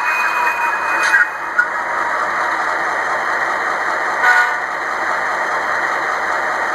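Recorded diesel locomotive sound from a Tsunami DCC sound decoder, played through a tiny 'sugar cube' speaker in an HO scale GP38-2: a steady engine rumble with almost no bass. Some high tones stop about a second in, and a short toot sounds a little over four seconds in.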